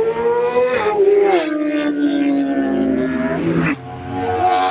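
Inline-four superbike engine at high revs. Its note climbs, then drops sharply twice in quick succession as the rider shifts up. It then holds a high note that slowly falls and cuts off about a second before the end.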